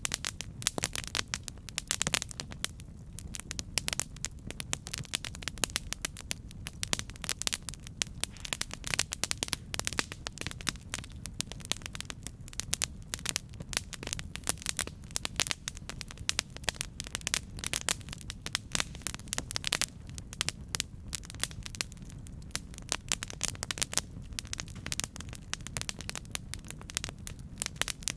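Campfire burning with a dense, irregular crackle of sharp pops and snaps over a steady low rumble of flames.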